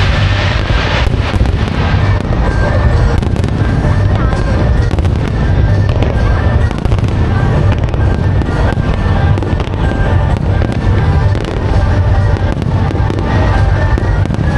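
Fireworks display: a dense, continuous run of bursts and crackling over a loud low rumble, with music playing along.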